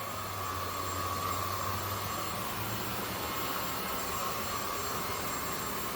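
Zoker A10 Pro cordless stick vacuum running steadily on its highest power setting: a constant rush of air with a steady high whine.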